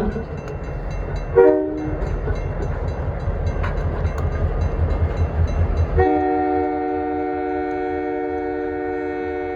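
Diesel locomotive's multi-chime air horn sounding a short blast, then about four seconds later a long held blast, over the steady low rumble of the locomotive's engine.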